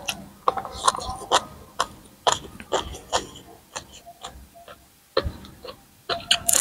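Close-up chewing of a mouthful of crunchy shredded green papaya salad: a quick, irregular run of crisp crunches, easing off briefly about five seconds in.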